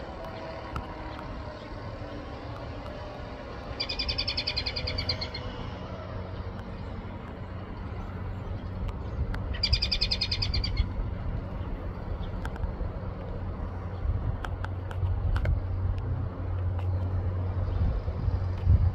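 A bird's rapid trill, heard twice, each about a second and a half long, over a steady low rumble that grows louder near the end.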